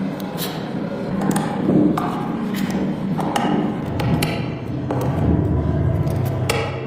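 A series of separate knocks and clicks, roughly one a second, from hands and tools working on a laptop, over a steady low hum.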